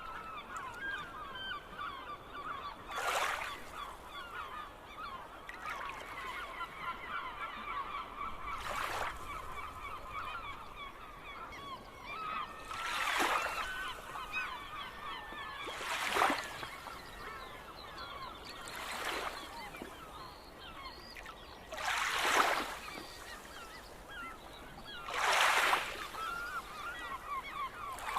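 A flock of gulls calling, a continuous tangle of many short cries. Seven loud, brief rushing noises break in a few seconds apart.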